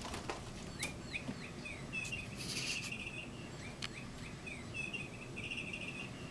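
Bird chirping in repeated quick, high trills, with a soft knock or two right at the start as a cat lands on a carpeted cat tower.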